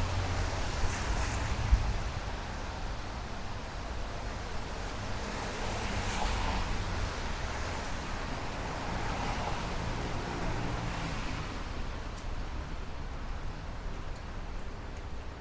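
City street traffic: vehicles passing with tyre noise and a low engine rumble that swells and fades, with passes about six and ten seconds in. There is a single short knock near the start.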